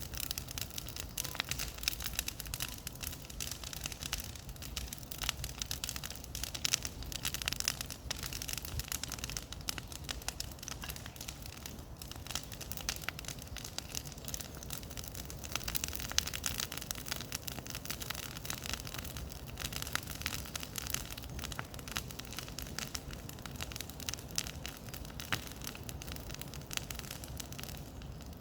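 Bonfire burning with a dense, continuous crackle and popping of burning wood and brush.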